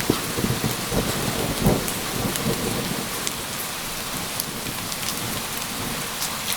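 Steady rain falling, with rolling thunder rumbling low in the first half and dying away.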